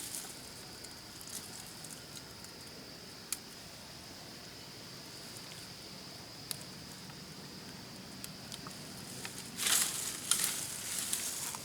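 Rainforest ambience with a steady, high-pitched insect drone and a few scattered light clicks. Near the end, a burst of louder rustling and crackling, like movement through dry leaves or brush.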